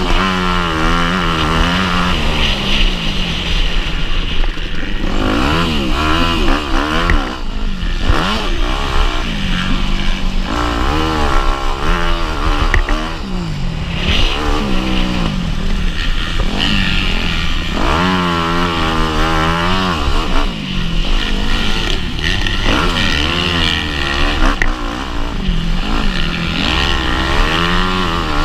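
Motocross bike engine revving hard and then dropping back, again and again, as it accelerates, shifts and slows through a race lap.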